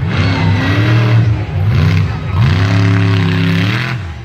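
Monster truck engine revving hard in three bursts: a rise and fall, a short blip, then a long rev held high for over a second before it drops away.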